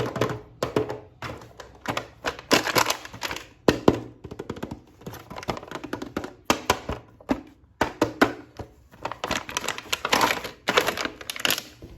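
Plastic toy packaging and action figure being handled: a dense run of irregular clicks, taps and crinkles, with the odd sharper knock.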